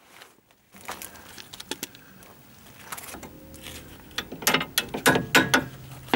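Ratchet wrench clicking in short irregular runs while undoing the nut on the lower ball joint bolt, with a few metallic clinks. The clicking comes in after a near-silent start and grows denser and louder over the last two seconds.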